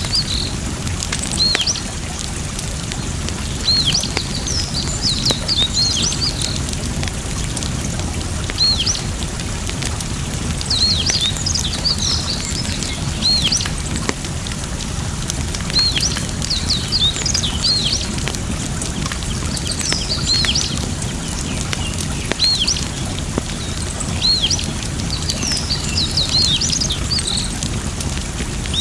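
Steady flowing water with small birds chirping in short, repeated calls over it, and a few faint crackles from a wood fire.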